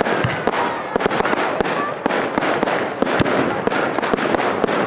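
Fireworks going off in a dense, continuous stream of crackles and pops, with a few faint short whistles.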